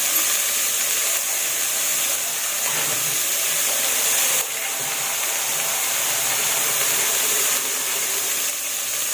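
Lentils and garlic sizzling steadily in hot onion oil in a pot, hissing with steam as the cooking water goes in.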